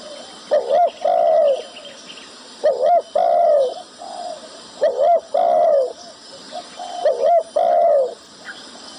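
Spotted dove (terkukur) cooing: four repeated phrases, each two short coos followed by a longer falling coo, about one phrase every two seconds.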